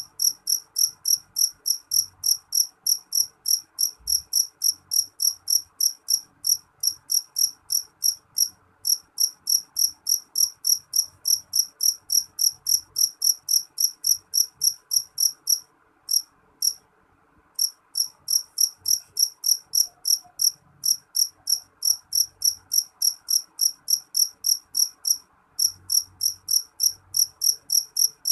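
Black field cricket (jangkrik jeliteng) chirping shrilly in an even train of about three chirps a second, stopping briefly twice.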